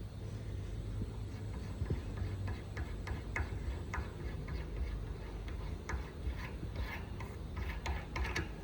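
Small metal clicks and taps, irregular and coming thicker near the end, as the parts of a common-rail diesel injector are unscrewed and handled with hand tools, over a steady low hum.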